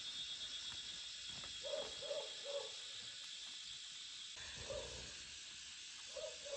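Bird hooting: short low calls, three in quick succession, then one, then two near the end, over a steady high buzz of insects.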